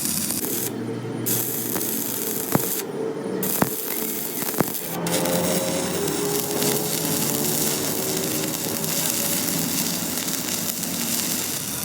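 Steady hissing noise of power-tool metalwork, with three sharp clicks about a second apart a few seconds in.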